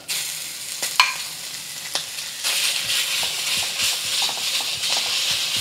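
Raw chicken sizzling in hot oil in a wok, the frying hiss growing louder about halfway through, while a metal wok spatula knocks and scrapes against the wok as it is stir-fried. A sharp ringing metal clink comes about a second in.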